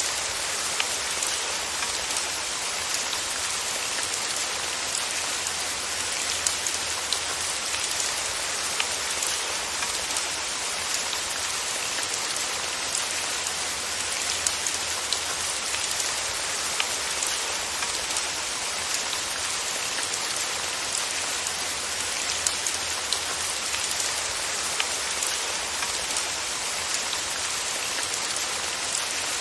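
Steady rain falling on a surface, a constant hiss with many small scattered drop ticks.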